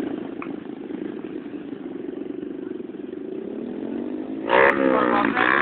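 Motorcycle engine running steadily, its pitch climbing after about three seconds, then revving loudly about four and a half seconds in.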